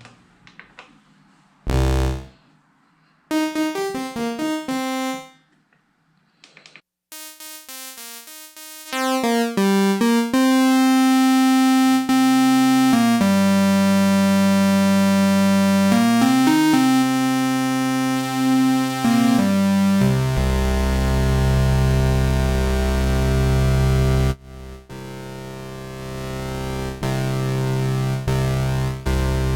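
Prophet Rev2 polyphonic analog synthesizer being played while a new patch is built from scratch. It starts with a few short, separate test notes, then from about ten seconds in holds sustained notes and chords over a deep bass, shifting pitch every few seconds.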